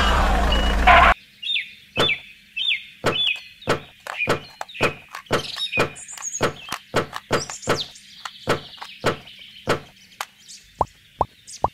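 Small stones dropped one at a time into the plastic bed of a toy truck, a sharp clack every half second or so, with birds chirping in the background. For the first second loud music and engine-like noise run on, then cut off abruptly.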